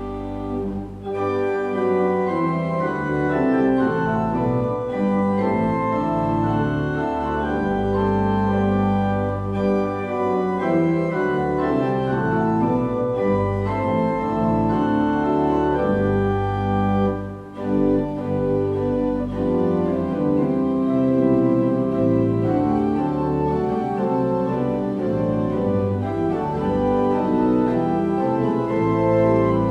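Organ music: slow, held chords over a moving bass line, with short breaks about a second in and again around seventeen seconds in.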